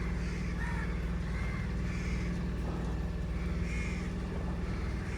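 A boat engine running steadily with a low hum, while crows caw a few times over it.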